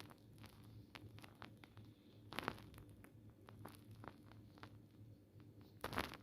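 Faint scattered clicks and light crackling of small handling noises, with two louder crackles about two and a half seconds in and near the end.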